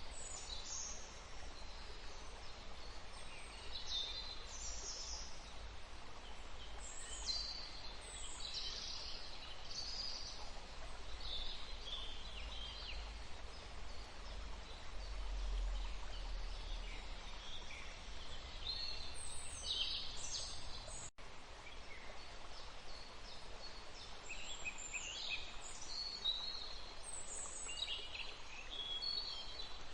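Small birds singing and calling in short repeated phrases over the steady rush of a flowing river, with a low rumble underneath. The sound drops out for an instant about two-thirds of the way through.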